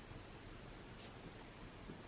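Faint scratching of a pen writing on paper over a steady low room hiss.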